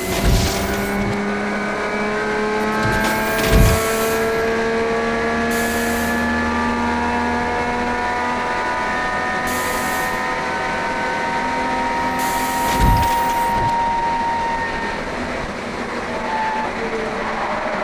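A 1971 HQ Holden race car's engine running hard, heard from on board. Its note climbs slowly and steadily under acceleration, broken by three sharp knocks. Near the end the engine note fades under a rougher noise.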